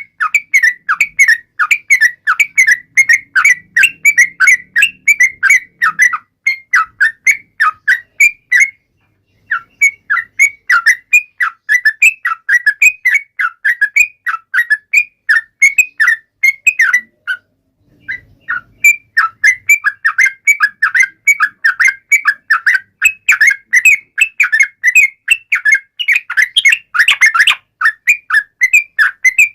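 Yellow-vented bulbul (trucukan) calling vigorously: a fast, loud run of short, whistled notes, several a second, breaking off briefly about 9 seconds and 18 seconds in.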